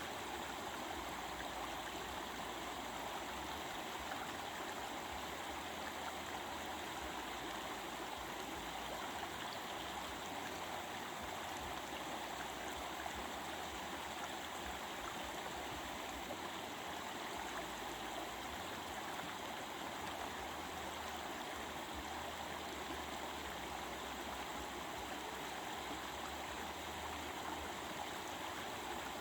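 A stream babbling in a steady, even rush of flowing water.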